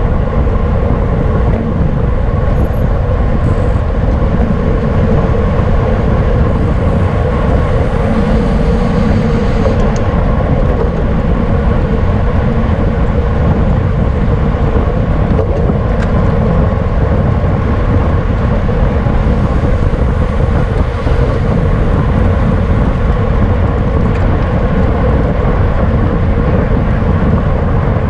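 Steady wind rumble on a camera microphone riding along on a racing bicycle at speed, with a steady hum over it from the tyres and drivetrain.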